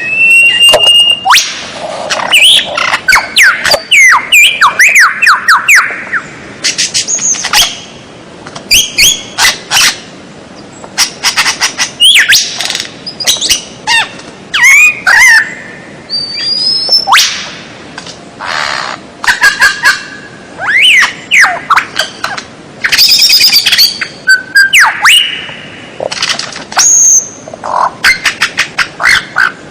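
Recorded songbird song for tutoring caged birds: loud, rapid phrases of varied whistles that slide up and down, fast trills and dry clicking chatter, one phrase after another with only short pauses.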